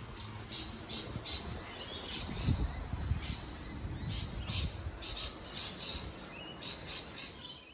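Birds chirping in many short, sharp calls repeated in quick succession, over a steady low rumble of background noise.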